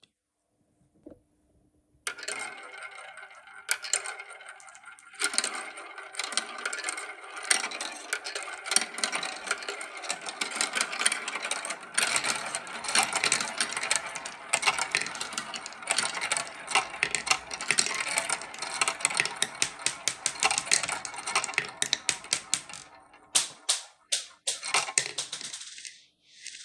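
Marbles rolling and clattering through a LEGO marble run: a dense stream of small clicks and rattles that starts about two seconds in and thins out near the end.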